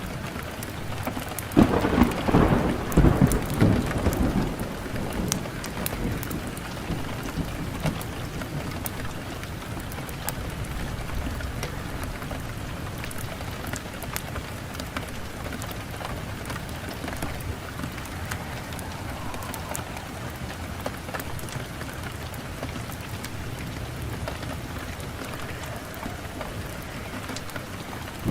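Wood fire burning in a fireplace, crackling steadily with many sharp pops. A louder, low rumble swells up about two seconds in and fades over the next few seconds.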